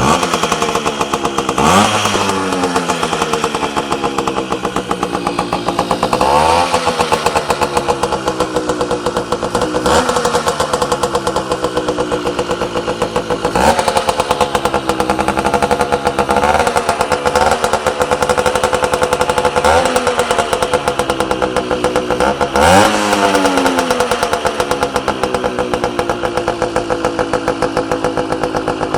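Casal Boss 50cc two-stroke moped engine with an M80 aftermarket exhaust, idling and revved in short throttle blips, about eight times.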